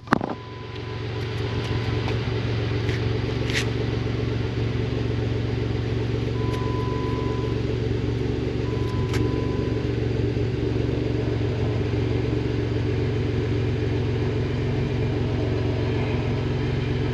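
Jeep Wrangler engine idling steadily after starting, settling into an even idle about a second in.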